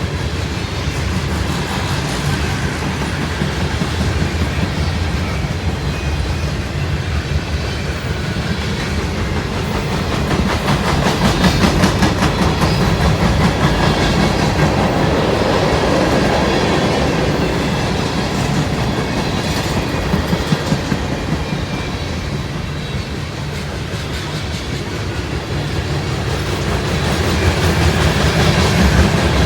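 Freight train cars rolling past, steel wheels clicking over rail joints in a continuous clickety-clack over a steady rumble, swelling louder now and then.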